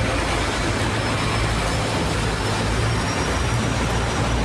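Tour boat under way, a steady low hum of its drive under a constant rush of wind and water.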